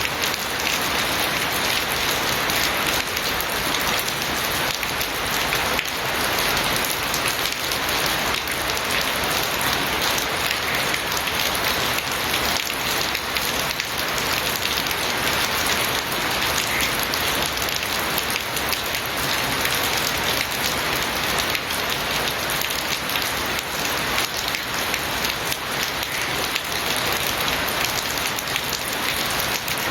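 Steady rain falling and pattering on surfaces, a dense even hiss with fine crackle of drops.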